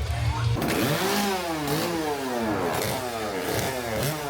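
A small engine is revved up and down over and over, a buzzing sound whose pitch keeps swinging, starting about half a second in after a moment of music.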